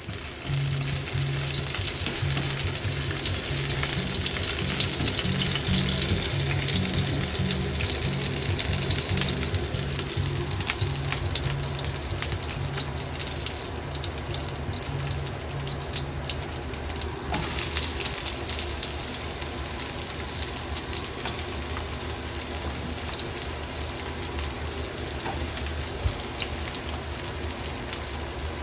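Chopped garlic, and later sliced onion, sizzling and crackling in hot oil in a frying pan, with a steady frying hiss throughout.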